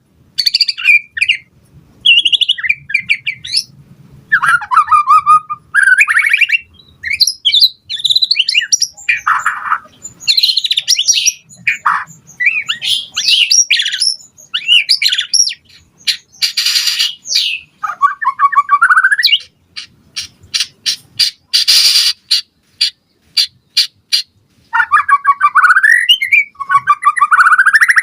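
White-rumped shama (murai batu) singing continuously: a varied run of loud whistled phrases sliding up and down, with a string of short sharp clicking notes about two-thirds of the way through.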